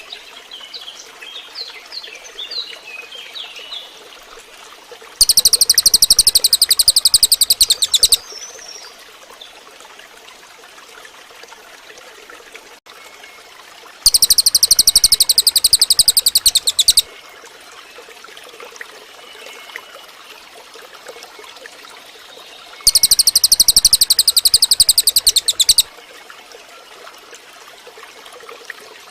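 Cililin bird song: a loud, rapid trill lasting about three seconds, repeated three times about nine seconds apart. Faint short chirps and a steady hiss come between the trills.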